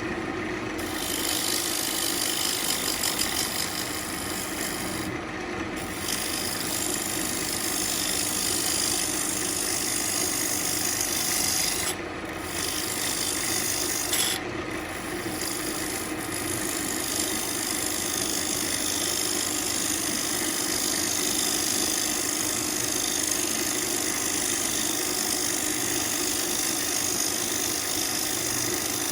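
Central Machinery wood lathe running with a turning tool cutting into a spinning ambrosia maple bowl blank: a continuous scraping hiss over the steady hum of the lathe. The cutting hiss drops out briefly a few times, about a second in, near six seconds, and twice around twelve to fifteen seconds, as the tool comes off the wood.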